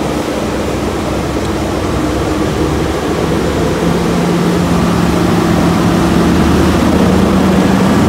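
Class 43 HST power car's diesel engine working under power as the train pulls away, a loud steady engine note that grows stronger about four seconds in.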